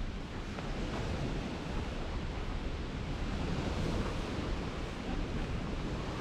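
Steady rushing of wind and small waves washing on a lakeshore, with wind buffeting the chest-mounted GoPro's microphone.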